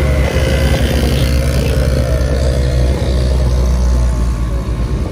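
Vehicle engine running and road noise heard from inside the cab while driving along, a steady low hum throughout.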